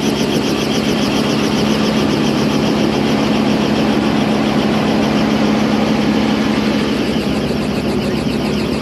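Helicopter running close by, a steady engine tone under a fast, even rotor beat.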